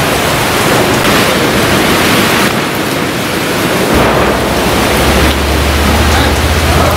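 Heavy rain with strong gusting wind: a loud, steady hiss that swells and eases. A low rumble comes in about four seconds in.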